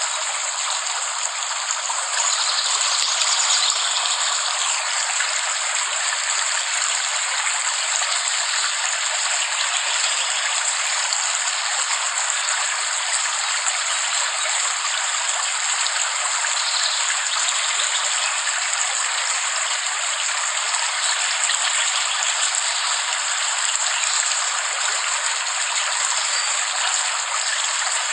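Steady rain falling, an even hiss with no low rumble; it grows a little louder about two seconds in.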